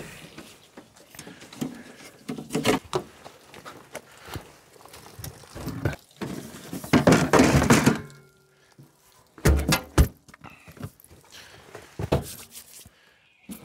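A string of knocks, thuds and clattering as hard objects are handled and set down. There is a dense burst of clatter about seven seconds in and two heavy thumps a couple of seconds later.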